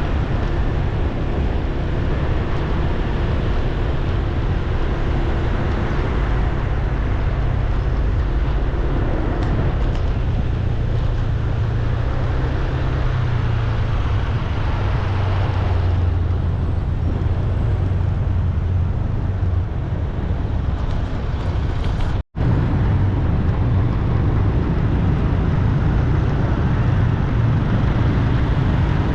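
Steady road traffic noise, a continuous low rumble of vehicle engines and tyres, with a momentary total dropout about 22 seconds in.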